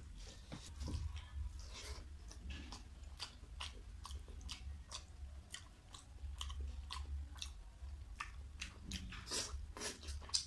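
Close-up eating by hand: chewing a mouthful of rice and curry, with many irregular short wet clicks, and fingers squishing rice into curry on the plate. Near the end another handful goes into the mouth.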